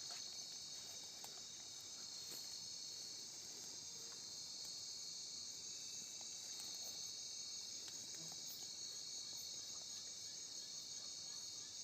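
Steady, high-pitched chorus of night insects, a continuous shrill trilling.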